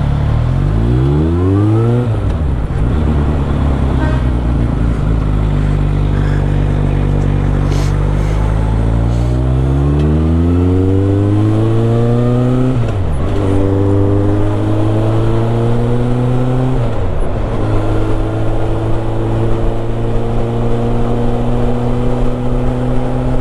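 Suzuki GSX650F's inline-four engine pulling up through the gears. The revs climb, then drop at upshifts shortly after the start, about halfway through and about three quarters of the way in. Steady wind noise rushes over the microphone.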